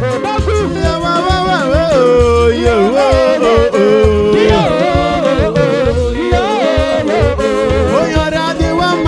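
Worship song: a solo voice sings long, sliding notes over a bass line and a steady beat.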